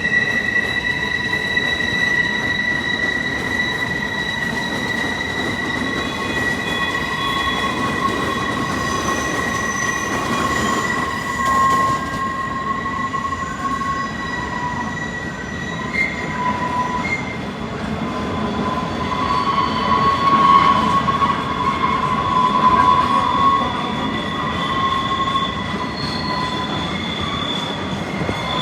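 Train wheels squealing in several high, sustained tones over the low rumble of the train rolling along the track; the squeal wavers in pitch and grows louder about two-thirds of the way through.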